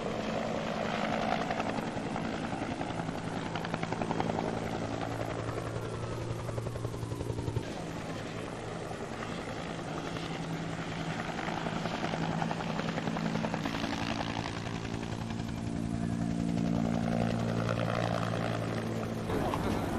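Steady mechanical drone of an engine or rotor, its pitch holding constant; the sound changes abruptly about 8 seconds in and again near the end.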